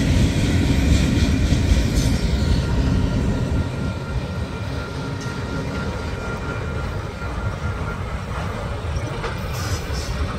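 Freight train of loaded flatcars rolling past: a steady rumble and clatter of steel wheels on the rails, heavier for the first few seconds and then easing off, with a thin steady squeal in the middle.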